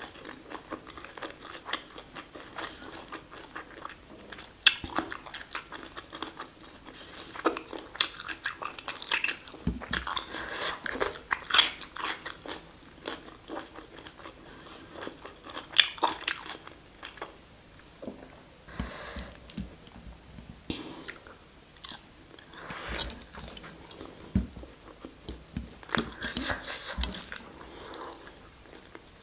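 Close-miked eating sounds: a person chewing and biting mouthfuls of rice and mutton curry eaten by hand, with irregular wet clicks and occasional crunches.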